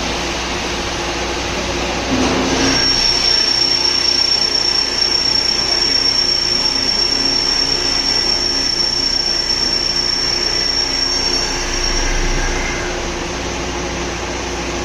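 TCP V-1800 CNC vertical drilling machine running with a steady mechanical hum. About two seconds in the noise rises and a steady high-pitched whine sets in; near the end the whine stops and the machine drops back to its lower running noise.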